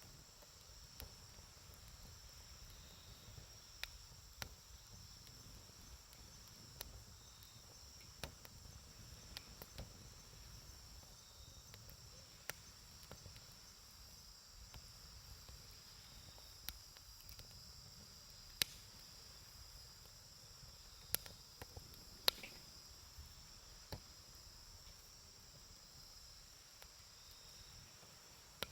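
Wood campfire crackling, with scattered sharp pops and a few louder ones past the middle. Under it runs a steady high chorus of crickets.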